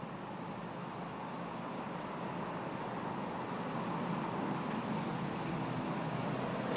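A car running, engine and road noise swelling gradually louder.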